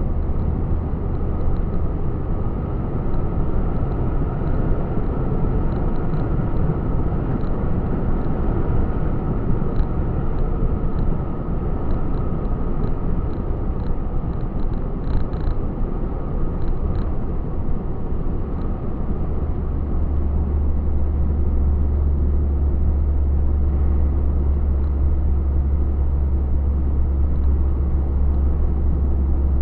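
Truck driving on the road, heard from inside the cab: steady engine drone and road noise. The low engine hum grows stronger about two-thirds of the way through, and a few faint clicks come near the middle.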